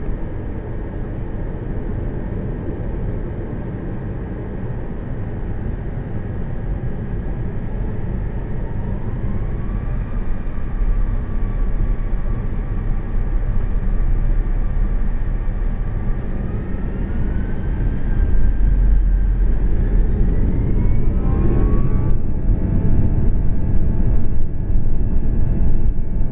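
CFM56-5C turbofans of an Airbus A340-300, heard from the cabin, spooling up: a deep rumble under thin whining tones that rise in steps and grow louder, climbing sharply about twenty seconds in, as power comes up for the takeoff roll.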